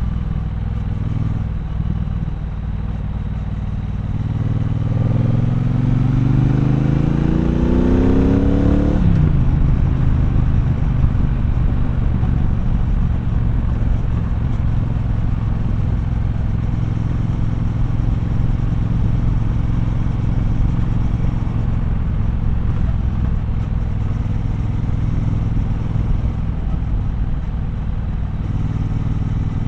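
Triumph Bonneville Bobber's 1200 cc parallel-twin engine heard from the rider's seat, rising in pitch for several seconds as the bike accelerates. It falls sharply about nine seconds in, then runs on at a steady, lower pitch.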